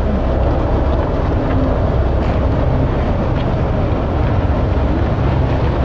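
Pickup truck engine running with a loud, steady rumble.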